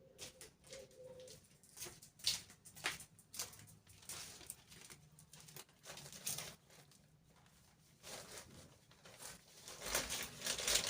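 Irregular rustles and light clicks and knocks of things being handled, with a dove cooing softly in the first second or so.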